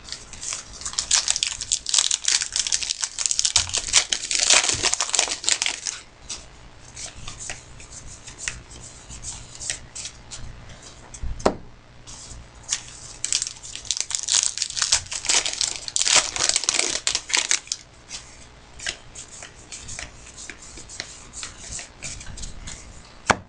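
Wrapping on trading-card packs being torn open and crinkled, in two long spells of crackling with a single sharp click between them.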